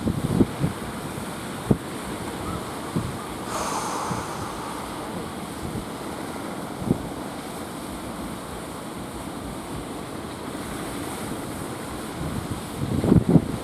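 Strong wind buffeting the microphone over the steady wash of sea waves. Gusts rumble near the start and again near the end, with a brief hiss about three and a half seconds in.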